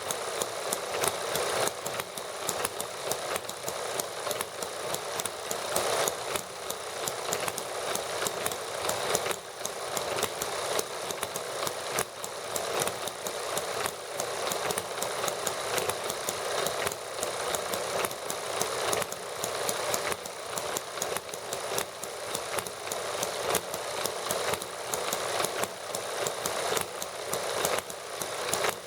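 Several small model gasoline engines, hit-and-miss type toy engines, running together with a fast, steady clatter of firing strokes.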